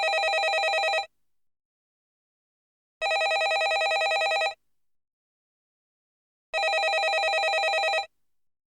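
Landline telephone ringing with a fast trill, in rings about a second and a half long that repeat every three and a half seconds: the end of one ring, then two full rings.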